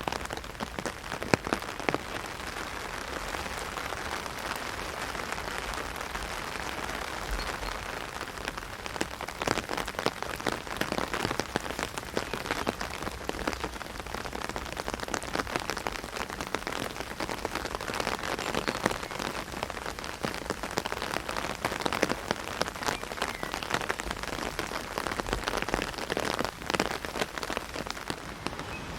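Heavy rain falling on an umbrella overhead: a dense steady hiss of rain with many sharp individual drop hits on the canopy.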